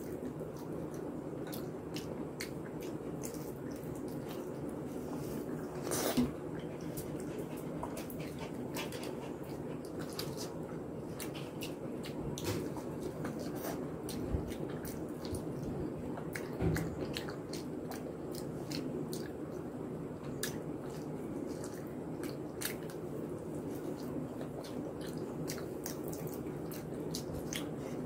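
Close-miked eating of soft khichuri by hand: wet chewing and lip-smacking with many small wet clicks, and the squish of fingers mixing the rice and lentils on the plate, over a steady low hum.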